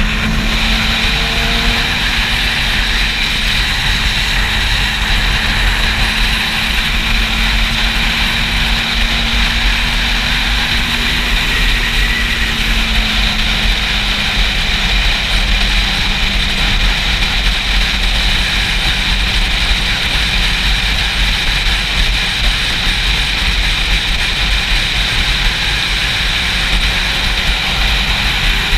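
Wind buffeting the camera microphone while riding a Yamaha YZF-R6, with the bike's inline-four engine as a steady tone underneath. The engine note eases slightly lower about halfway through.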